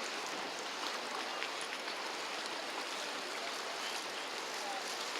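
Steady outdoor ambient noise, an even hiss with faint scattered ticks; no engine or voice stands out.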